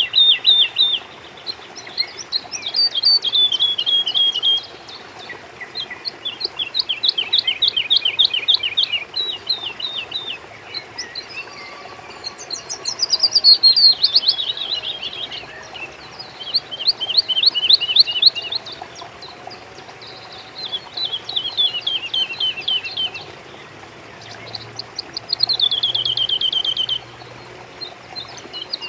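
A songbird singing a phrase of rapid, short downward-slurred notes every few seconds, about eight phrases in all, each one to three seconds long.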